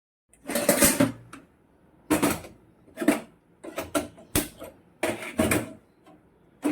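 Metal kitchenware clattering: a karahi (wok) and pans being handled and set on the stove, a series of about seven loud, separate clanks and scrapes.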